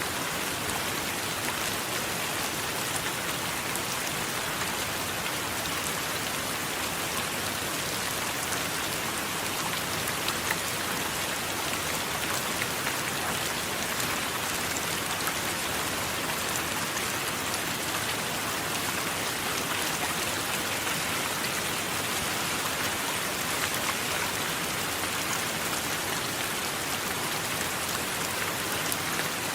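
Steady rain: a dense, even hiss with scattered taps of individual drops.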